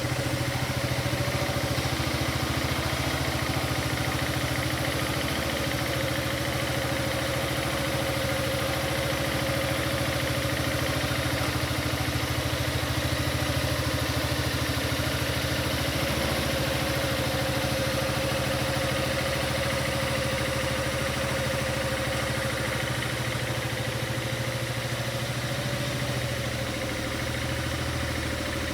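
Yamaha Maxam SG21J scooter's 250 cc single-cylinder four-stroke engine idling steadily.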